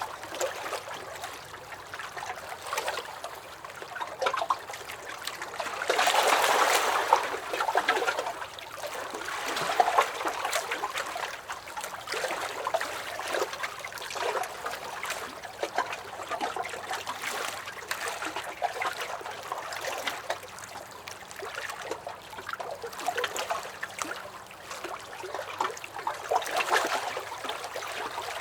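Small lake waves lapping and splashing against a dock: an uneven, continuous run of slaps and trickles, with a louder swell about six to eight seconds in.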